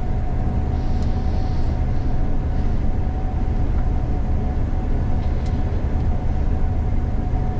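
Gleaner combine harvester running steadily while harvesting soybeans, heard from inside the cab: a constant low drone of engine and machinery with a thin steady whine over it.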